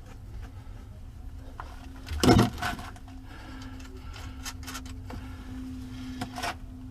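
Clicks and clanks of hand tools and batteries being handled, with one loud thump about two seconds in, over a steady low hum.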